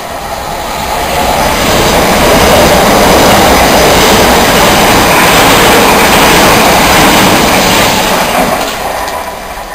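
Southern electric multiple-unit train passing through the station at speed: a steady rush of wheels on rail that builds over the first two seconds, holds, and fades away near the end as the rear cab goes by.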